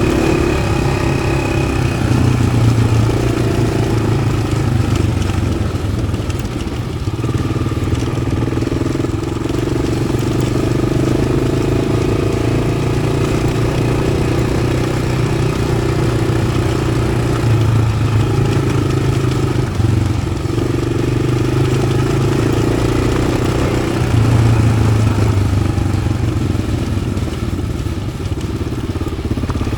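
Yamaha XT600's single-cylinder four-stroke engine running under way through an aftermarket Arrow exhaust, holding fairly steady revs with small rises and falls.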